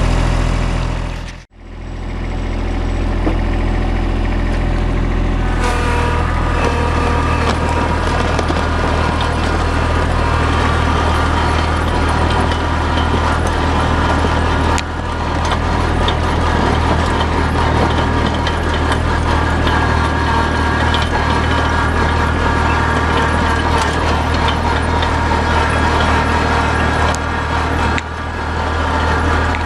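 Farm tractor engine running steadily while plowing snow on a gravel drive with a rear blade, heard from the tractor. The sound cuts out sharply about a second and a half in, and a steady higher whine joins the engine a few seconds later.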